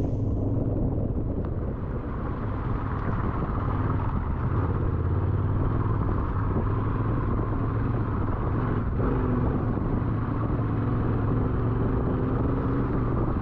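Yamaha Ténéré 700 adventure motorcycle's engine running steadily at a constant pace, with a steady hiss of wind and tyre noise over it.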